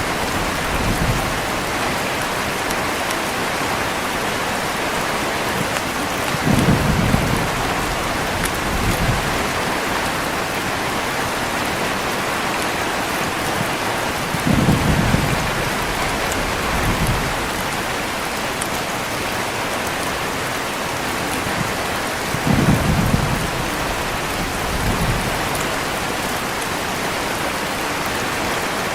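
Heavy, steady rain with low rolls of thunder that swell three times, about eight seconds apart, each with a smaller rumble after it.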